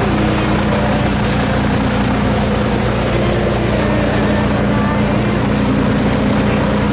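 Boat engine running at a steady speed: a constant low drone with rushing noise over it.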